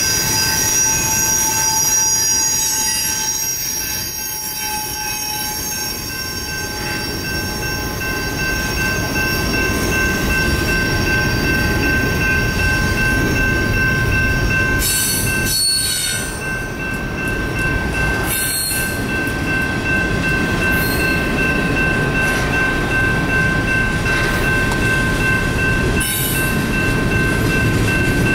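Double-stack intermodal container cars rolling past, a steady rumble of wheels on rail with continuous high-pitched wheel squeal over it. A few brief louder rushes of noise come through the middle and near the end.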